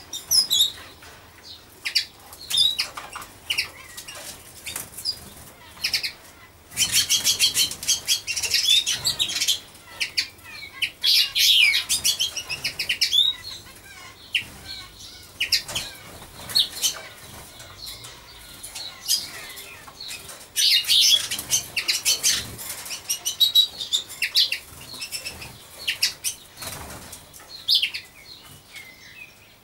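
Small birds chirping and twittering in quick bursts, with two busy flurries of chirps, one about a quarter of the way in and one a little before the middle, and scattered single chirps in between.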